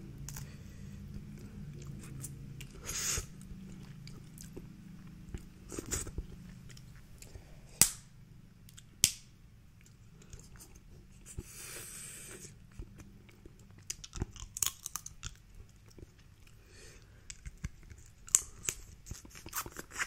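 Snow crab leg shells being cracked and picked apart by hand, with scattered sharp cracks and clicks, the loudest about eight and nine seconds in, mixed with close-up chewing.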